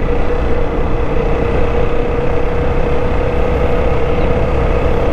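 Apache RTR 160 motorcycle riding at a steady speed: a constant engine hum with a low, even wind rumble on the microphone.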